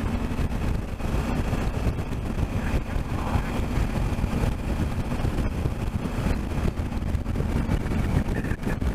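Honda Africa Twin motorcycle on the move: the engine's steady drone under heavy wind rush on the microphone.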